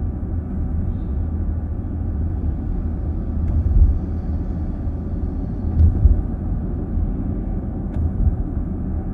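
Steady low road and drivetrain rumble inside a moving car's cabin, with two small bumps about four and six seconds in and a few faint clicks.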